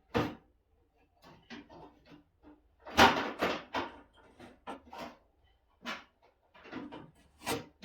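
Metal tools clattering and clanking as a toolbox is rummaged through, a string of irregular knocks with the loudest clank about three seconds in.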